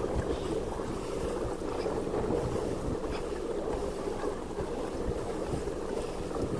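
Pedal-driven fishing kayak moving through the water, with a steady rush of water and wind noise on the microphone.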